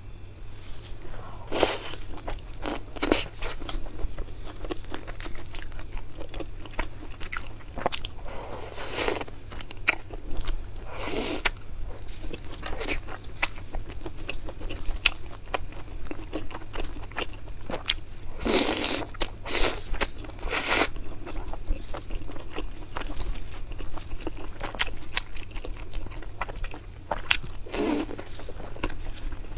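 Close-miked biting and chewing of sauced fried skewered food. Crisp crunches and crackles recur throughout, with several louder crunchy bites spaced through it.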